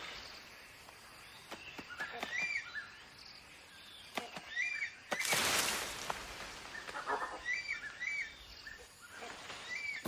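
Tropical forest ambience with a bird giving short chirping calls, mostly in pairs, several times over. A brief rush of noise comes about halfway through.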